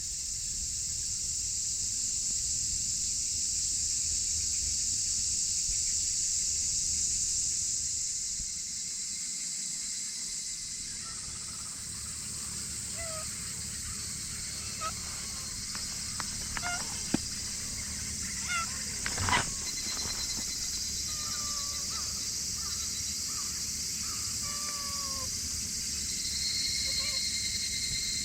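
A cat meowing in short, sliding calls repeated every second or so from about halfway through, over a steady high-pitched hiss. There is a sharp knock and a brief rustle about two thirds of the way in.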